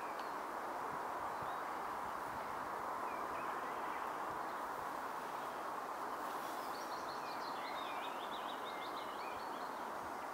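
Steady outdoor background hiss with a small bird singing a quick run of high, sliding notes from about six to nine seconds in. A few faint chirps come a little earlier.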